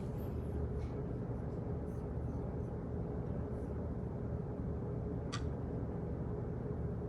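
Office ambience: a steady low hum with faint, scattered clicks, and one sharper click about five seconds in.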